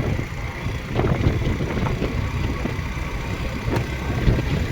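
Motorcycle coasting downhill: wind buffeting the helmet-mounted microphone in a steady low rumble, over the bike's engine running at low revs.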